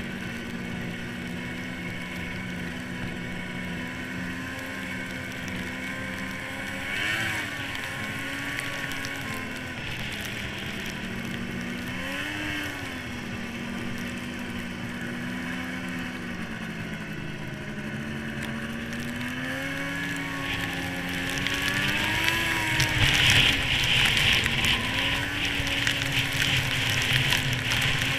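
1998 Yamaha SRX700 snowmobile's three-cylinder two-stroke engine running under way, its pitch rising and falling several times with the throttle. For the last several seconds it gets louder, with a rushing hiss over the engine.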